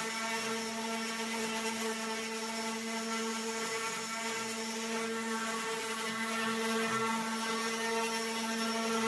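A steady buzzing hum at one unchanging pitch, with no rise or fall.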